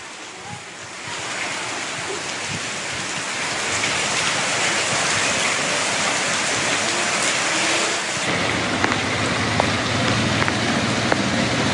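Heavy rain falling on floodwater, a steady hiss that grows louder over the first few seconds, with a deeper rushing rumble joining about eight seconds in.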